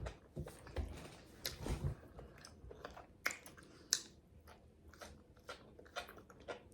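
A person chewing and biting food close to the microphone: irregular wet mouth smacks and clicks, a few louder ones in the first couple of seconds and about four seconds in.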